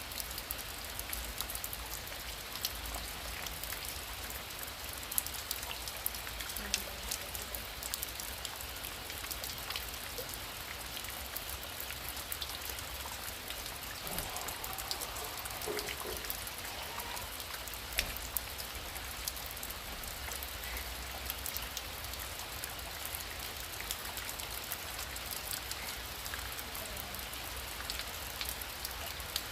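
Heavy rain falling steadily, a dense patter of individual drops striking close by over the even hiss of the downpour.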